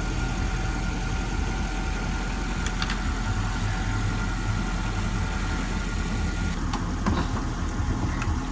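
Car engine idling steadily while connected by jumper cables, charging a car's cold-drained dead battery before a start attempt. A few faint clicks come about three and seven seconds in.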